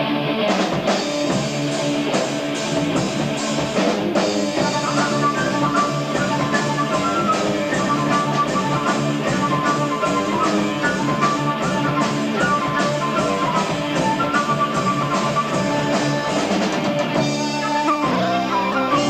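Live progressive rock band playing, with electric guitar and a steady drum-kit beat, on an amateur tape recording of a concert. Near the end the drums drop out and the arrangement changes.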